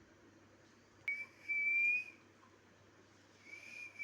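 Two long whistled notes at a high, nearly level pitch, the first rising slightly and lasting about a second, the second starting near the end.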